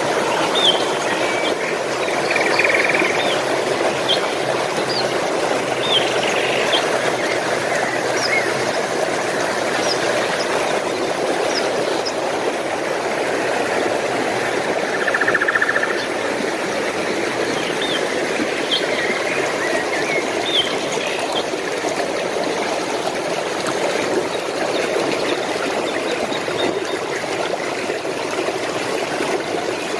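Running stream water flowing steadily, with small birds chirping in short, high calls scattered over the first two-thirds and a brief buzzy trill about halfway through.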